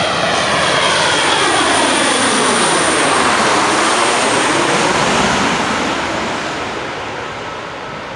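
Fokker F28 Fellowship jet airliner's twin turbofan engines passing close on its landing approach: a loud jet roar with a sweep falling in pitch as it goes by, fading over the last couple of seconds.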